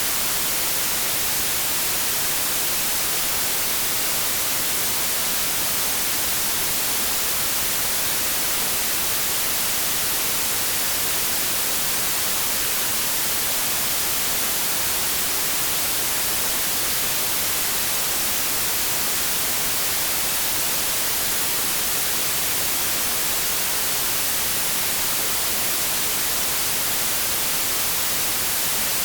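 Synthetic white noise: a steady, even hiss, brightest in the highs, that never changes.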